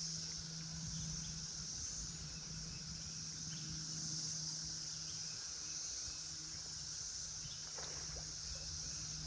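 Steady, high-pitched chorus of cicadas droning without a break, with a faint steady low hum beneath it.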